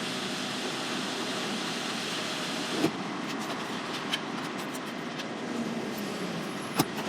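Lorry running: a steady vehicle noise, with a few short sharp clicks, about three seconds in, four seconds in and near the end.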